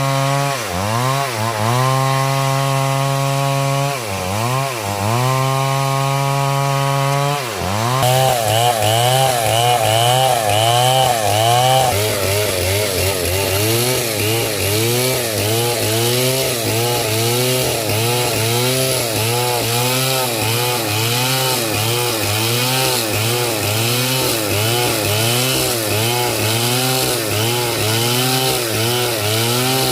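Stihl 070 two-stroke chainsaw running at high revs, its speed dipping briefly a few times. From about eight seconds in it cuts through hard coconut wood, its pitch wavering up and down under load over a hiss of chain and chips.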